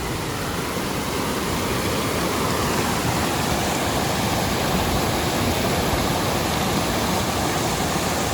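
Waterfall rushing steadily, a dense even roar of falling water, growing a little louder about a second in.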